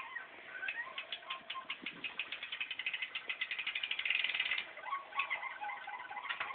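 Rapid rhythmic clicking from a Bridgestone Roadman bicycle's drivetrain, quickening for a few seconds and then stopping about two-thirds in. It is an abnormal noise that the owner cannot place as coming from either the chain or the gears. Short bird chirps are heard near the end.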